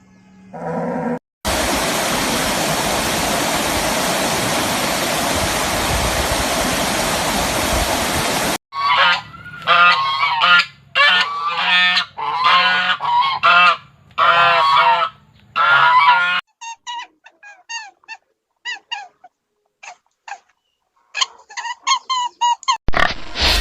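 Farm fowl calling in a run of short, repeated loud calls, followed by fainter, shorter, higher calls. Before them comes several seconds of loud, steady rushing noise.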